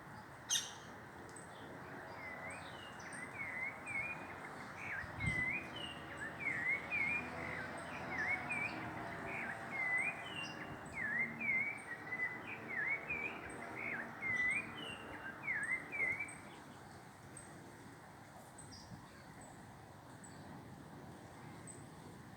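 A small bird chirping over and over in a quick run of short, sharp notes, about two a second, over a steady background hiss. A single sharp click comes about half a second in, and the chirping stops a few seconds before the end.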